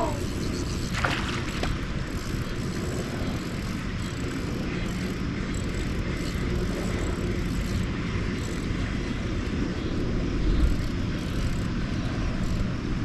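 Boat motor running steadily, a low even drone with wind noise, and a couple of light knocks about a second in.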